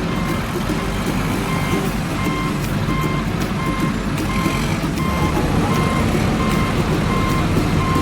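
Truck reversing beeper sounding steady, evenly spaced beeps, about three every two seconds, over the low rumble of the vehicle's engine.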